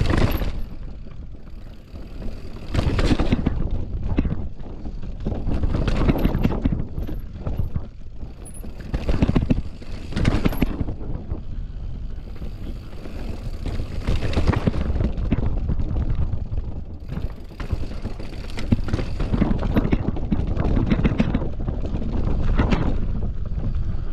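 Mountain bike riding down a rough, rutted trail: tyres rolling over dirt and rocks with irregular clattering knocks and surges from the bike, over a constant low rumble.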